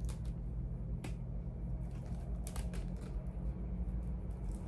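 A few light clicks and taps as charging cords and their plastic plugs are handled and sorted, over a steady low hum.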